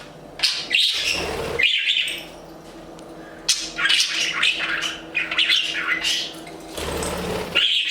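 Budgies chirping and chattering in short, irregular calls.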